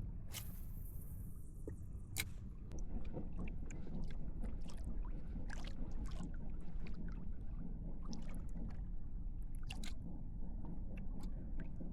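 Water lapping and gurgling against a fishing kayak's hull over a steady low rumble, with many small scattered clicks and taps; one is sharper about two seconds in.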